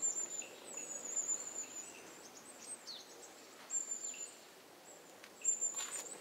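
Small forest birds giving thin, very high-pitched calls several times, each lasting up to about a second, with a few short falling chirps in between.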